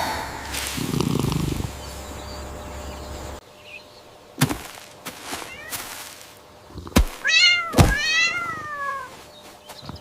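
A cat meowing twice, about seven seconds in, the second meow longer and falling in pitch. Several sharp knocks come before and between the meows.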